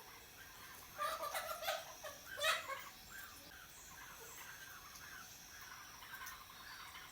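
Farm poultry calling: loud warbling calls about a second in and again at about two and a half seconds, then a run of softer calls repeated several times a second.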